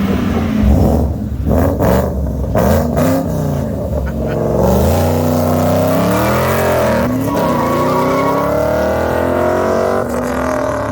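Ford Mustang engines revving hard: several quick rises and falls in pitch over the first few seconds, then longer pulls with the pitch climbing as the cars accelerate away.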